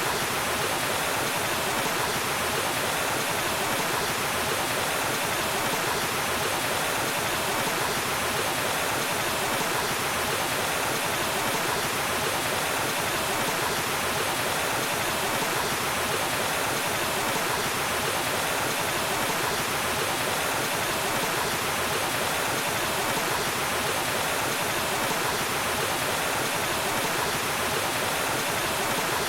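Waterfall: water pouring and splashing in a steady, even rush with no change.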